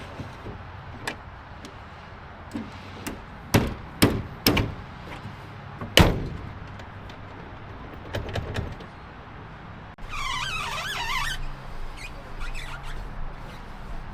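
Several sharp knocks and clanks, four loud ones within about three seconds, followed by a wavering squeak lasting about a second and a half.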